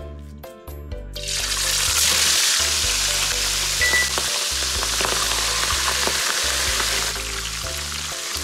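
Silver carp head pieces going into a pan of hot oil, which starts sizzling and bubbling hard about a second in and eases a little near the end.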